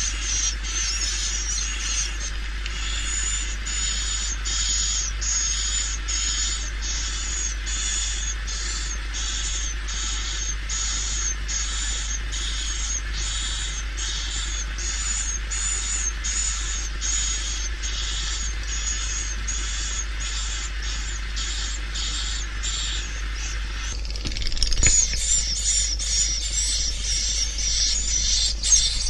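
Swiftlet calls of the kind played from tweeters to lure swiftlets into a bird house: high, evenly spaced chirps, about three every two seconds. Near the end the calling turns louder and denser, a busy twittering, over a steady low hum.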